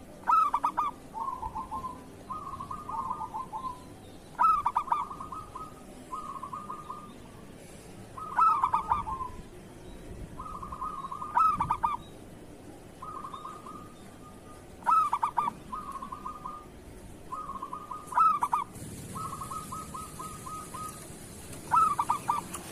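Zebra dove (perkutut) singing its rolling cooing song, about seven phrases, one every three to four seconds, each opening with a louder note and running on into softer rapid trilled coos.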